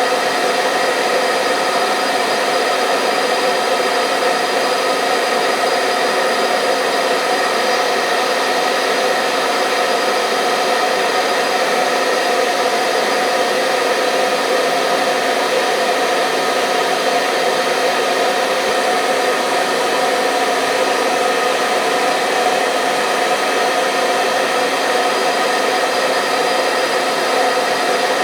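Hair dryer running steadily: an even rush of air with a constant motor whine made of several steady tones, unchanging throughout.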